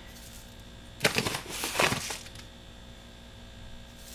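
Chia seeds poured into a bowl: a rattling pour of many tiny seed clicks, starting about a second in and lasting about a second and a half.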